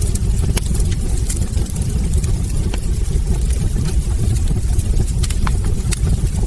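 Wood fire burning in a fireplace: a steady low rumble of the flames with frequent small sharp crackles and pops from the logs.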